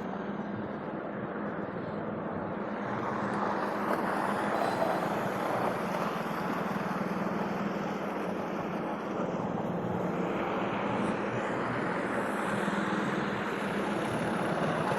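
An engine running steadily: a constant low hum under a rushing noise that swells a little a few seconds in and then holds.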